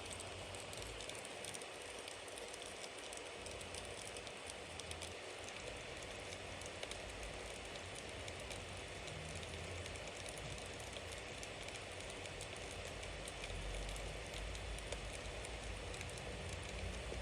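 Bonfire burning: a steady hiss of flame with many small, quick crackles and pops from the wood. A low rumble swells near the end.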